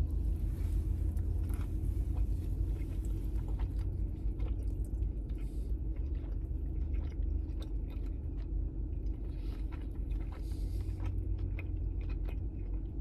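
A man biting into and chewing a burger, with small irregular wet clicks and crunches of the mouth throughout. A steady low hum from the car runs underneath.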